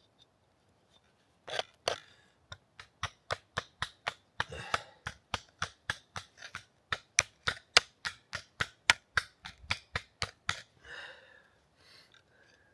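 Steel hatchet poll striking a stone in flint knapping: a long run of sharp clacks, about three a second, with some scraping in between, as flakes are knocked off a layered rock that keeps breaking away.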